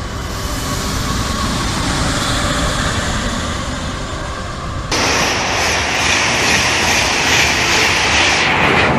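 High-speed train running at speed: a steady rushing noise over a low rumble, which jumps abruptly about five seconds in to a louder, brighter rush.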